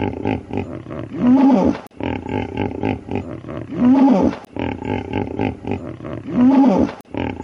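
Hippopotamus call played as a sound effect, the same short recording looped: low rough calls, each turn ending in a louder call that rises and falls in pitch, repeating about every two and a half seconds, three times.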